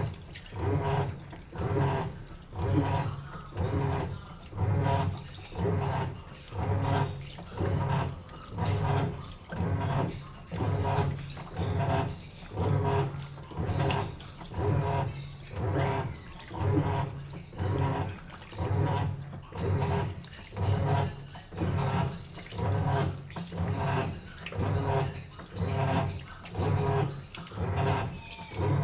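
Sharp washing machine in its wash cycle: the motor hums and the water sloshes in even surges about once a second as the drum or agitator turns back and forth.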